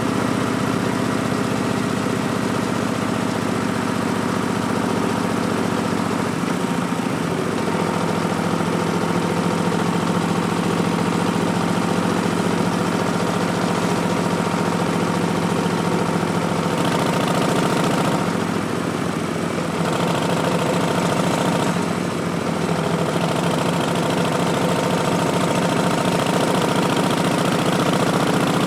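2019 Harley-Davidson Street Bob's Milwaukee-Eight V-twin engine running through Vance & Hines Twin Slash slip-on mufflers, a steady exhaust note. The engine speed changes a few times: about 7 seconds in, and again near 18 and 22 seconds.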